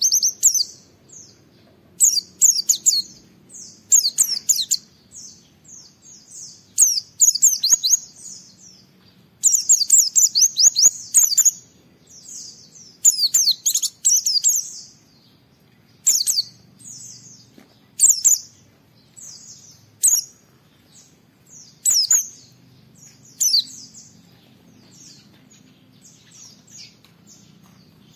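White-eye (pleci) singing: rapid, high twittering phrases in loud bursts every second or two, with quieter chatter between. The bursts thin out over the last few seconds.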